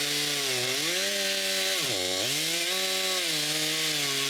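Chainsaw running at high revs while cutting branches off a fallen tree. Its pitch drops sharply about two seconds in as the chain bites into the wood, then climbs back up.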